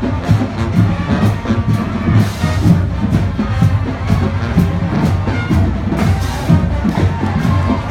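Marching band playing, with drums keeping a steady beat under the horns.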